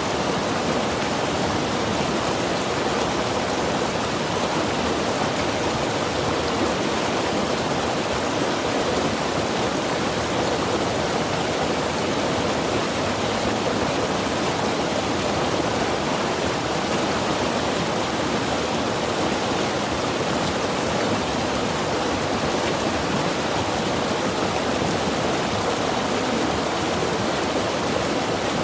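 Mountain river rushing steadily over rocks: a constant, even water noise with no breaks.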